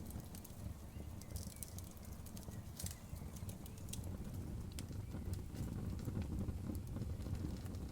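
Outdoor bonfire burning: a steady low rumble of flames with scattered sharp crackles and pops, a cluster of them about a second and a half to three seconds in.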